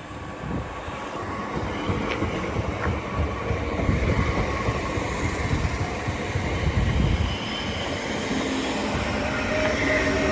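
Class 465 Networker third-rail electric multiple unit moving through the platform, its rumble growing steadily louder, with steady whining tones joining near the end.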